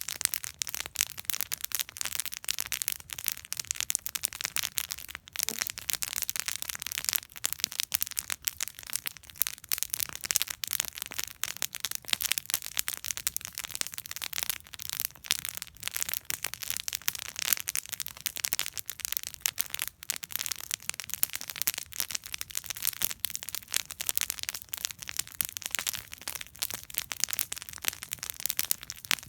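Wood campfire burning steadily, with a dense, continuous crackle of small sharp pops from the burning wood.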